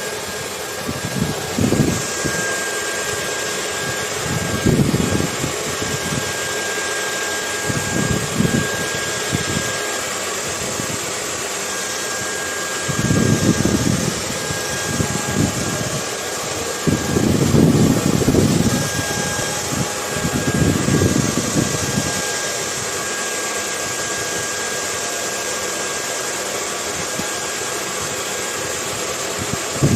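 Hair dryer running steadily, an even hiss with a faint thin whine, layered with ocean wind that comes in low rumbling gusts every few seconds, the strongest of them about halfway through.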